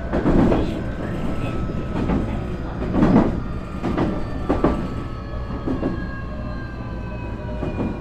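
Nankai 8300 series train's Hitachi two-level IGBT VVVF inverter and Toyo Denki TDK-6315-A totally enclosed induction traction motors running under the car, the wheels knocking over rail joints several times. In the second half the inverter and motor tones slowly fall in pitch as the train slows.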